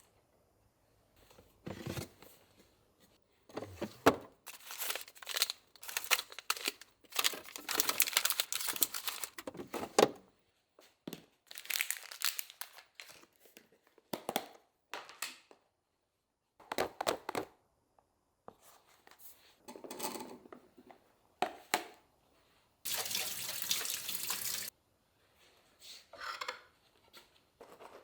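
Kitchen food-prep sounds: a run of separate rustling, tearing and handling noises with short pauses between them. A tap runs for about two seconds near the end.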